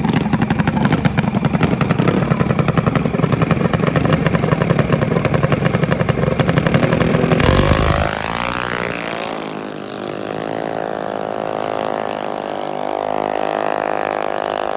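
Two mini bike engines revving hard at the drag strip start line with a rapid pulsing beat. About seven seconds in they launch, the engine pitch climbing steadily as the bikes accelerate away down the strip and the sound gets somewhat quieter.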